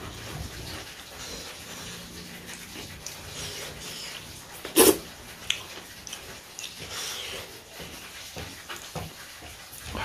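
Close-miked eating sounds: chewing and wet mouth noises of someone eating. A single sharp knock about five seconds in is the loudest sound, followed shortly by a smaller click.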